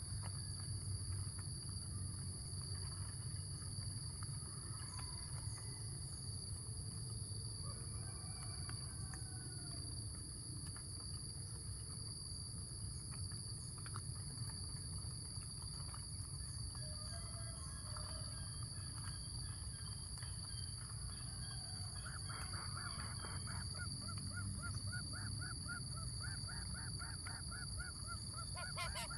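Outdoor ambience: a steady, high-pitched insect drone with faint scattered bird calls, and a fast pulsing trill in the last several seconds.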